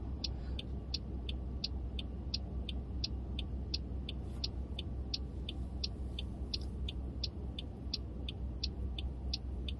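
A car's turn-signal indicator ticking, an even tick-tock of about three clicks a second heard inside the cabin, over the low hum of the idling car.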